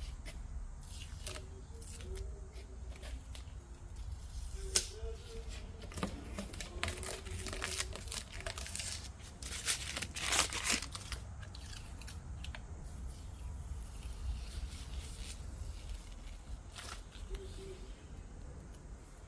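Tape being peeled off a freshly painted engine in a series of sharp rips, loudest about halfway through, with some crinkling of the pulled tape.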